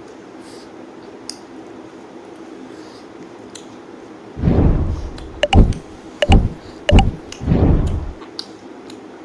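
Close-miked eating sounds: after a few quiet seconds, a run of loud chewing and crunching bursts with three sharp clicks among them, lasting about four seconds.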